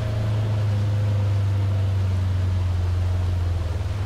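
Motor vehicle engine running steadily, heard from inside the vehicle as a loud low hum over a wash of noise, taking on a pulsing beat about three and a half seconds in.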